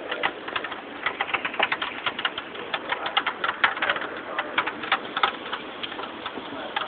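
Rain falling, with dense, irregular drops striking a hard surface close by.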